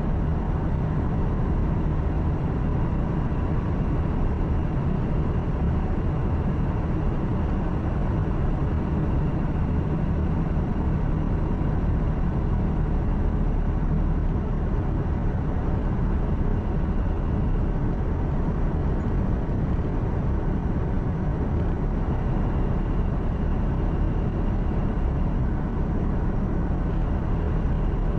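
Truck running at steady cruising speed, heard from inside the cab: an even engine drone mixed with tyre and road noise, with faint steady whines above it.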